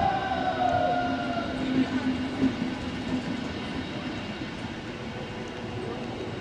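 Passenger train running on the track, with a steady rail noise and a few short knocks about two seconds in.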